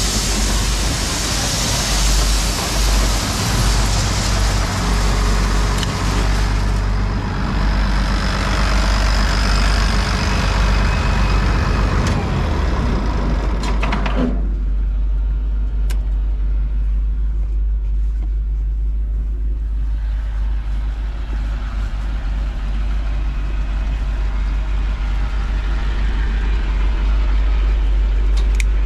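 Case IH 2388 combine running while unloading grain, a loud rushing noise over a low engine drone. About halfway through the rushing noise cuts off sharply and the low engine drone carries on alone.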